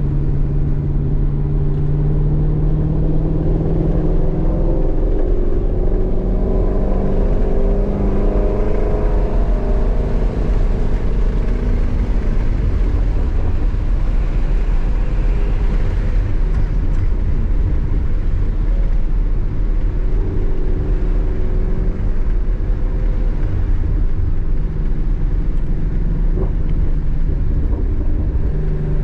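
Shelby GT350's 5.2-litre flat-plane-crank V8 heard from inside the cabin while lapping a race track: the engine note climbs in pitch as the car accelerates, then settles, over heavy low road and wind rumble.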